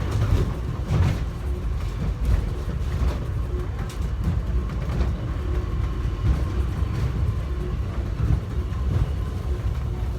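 Airport subway train running between stations: a steady low rumble with a few faint knocks from the wheels and track, and a faint steady whine.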